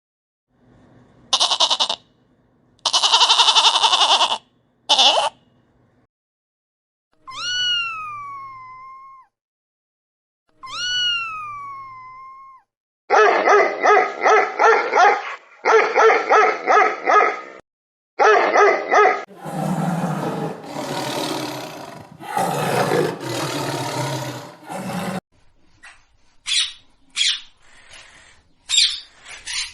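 A string of separate animal calls: a few short harsh bursts, two drawn-out calls that rise and then slide down in pitch like whines, then runs of rapid repeated calls and rougher, noisier cries.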